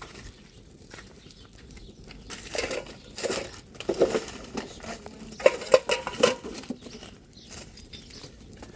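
Objects being handled: irregular taps and knocks with a few sharp clinks in the middle, over light rustling.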